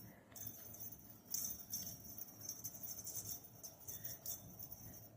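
Small jingle bell jingling in quick, irregular shakes, loudest about a second and a half in.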